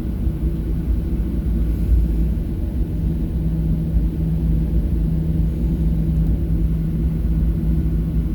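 Boeing 737-700's CFM56-7B jet engines running, heard inside the cabin: a steady low rumble with a constant hum.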